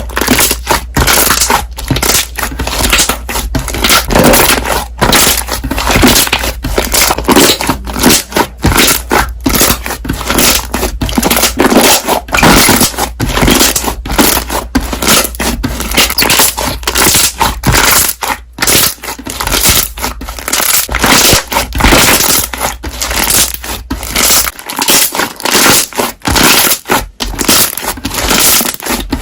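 Slime being squeezed and pressed, popping its trapped air bubbles in a fast, loud stream of crackles and pops with short pauses between squeezes.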